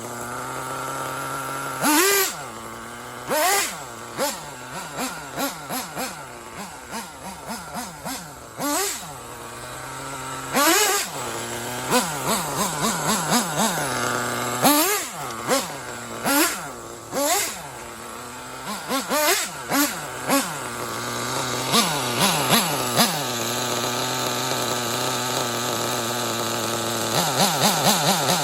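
Intech BR-6 Alpha .28 two-stroke nitro glow engine idling steadily, with many quick throttle blips that send the pitch sharply up and back down, some in rapid runs of several blips.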